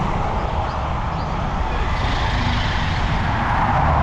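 A car driving along a road, with steady road and wind noise and a low rumble.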